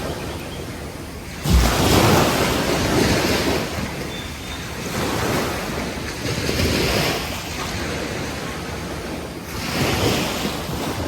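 Sea waves washing onto a beach, the surf noise swelling and fading in surges every few seconds, with a sudden low gust of wind on the microphone about a second and a half in.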